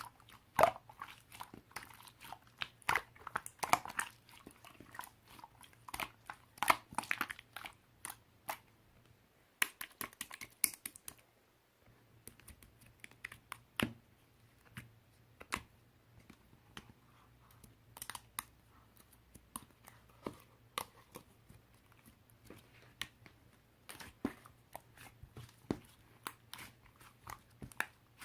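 Irregular crunching and clicking, like something being chewed, dense for about the first ten seconds and sparser after.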